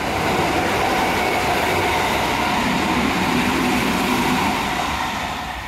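Sanyo Electric Railway train passing along the platform at speed: wheel and motor noise with a steady whine that swells as it arrives, holds, and fades away near the end.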